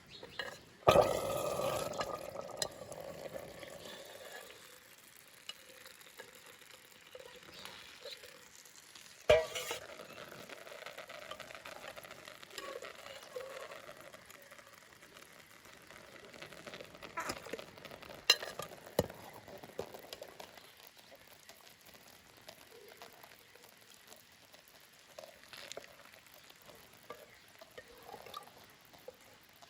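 Food frying in a pan while it is stirred. A loud burst of sizzling comes about a second in and dies down over a few seconds, followed by stirring and scraping with a few sharp knocks of a utensil against the pan.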